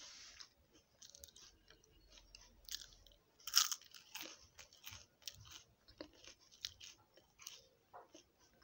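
Close-up crunching and chewing of a crisp chocolate stick: a loud bite about three and a half seconds in, amid a steady run of small crackling crunches as it is chewed.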